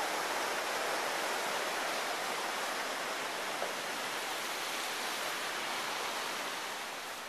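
River water rushing over rocks, a steady even hiss that eases slightly near the end.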